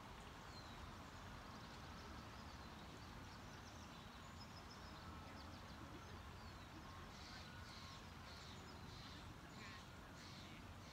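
Faint birds calling outdoors: a run of short high chirps in the second half, over a steady low background hum.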